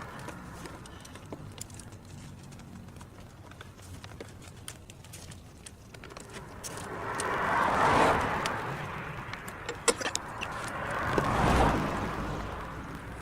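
Two vehicles passing by, each a rushing sound that swells and fades, the second about three seconds after the first and with a deeper rumble, along with a few light clicks.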